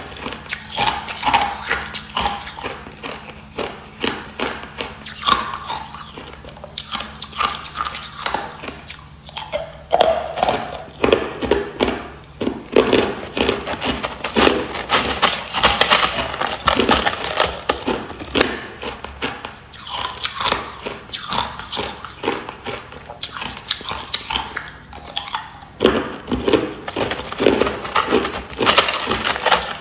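A person biting and chewing hard clear ice, with dense, irregular crunching and cracking.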